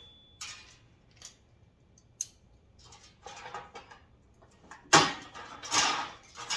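Small packaged parts being handled: light clicks and rustles, then louder crinkling of plastic packaging starting suddenly about five seconds in.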